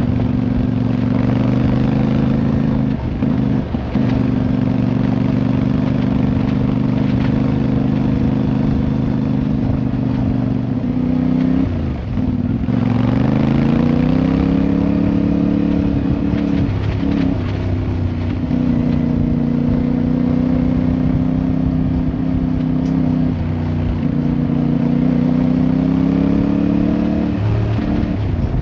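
Motorcycle engine running under way at a steady pitch, broken by a few brief interruptions. About twelve seconds in, the engine note falls, then rises slowly as the bike accelerates again.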